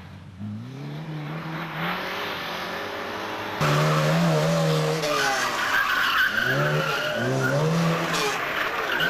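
Rally car engine revving hard up through the gears, its pitch climbing and falling back at each shift, with tyres squealing for about a second near the middle. The sound jumps abruptly louder and brighter about three and a half seconds in, as if switching to another car.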